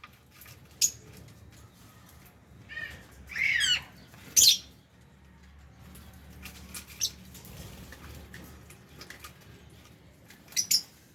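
Lovebirds calling in an aviary: scattered shrill chirps and squawks, one call sliding down in pitch about three and a half seconds in and the loudest, sharp call about a second later, with a double chirp near the end.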